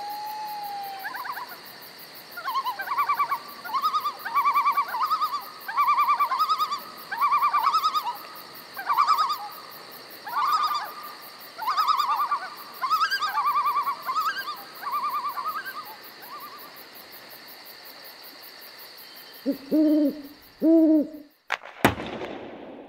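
A run of short, wavering animal calls, repeated about once a second over a steady high hiss. Two lower calls follow near the end, then a single sharp click.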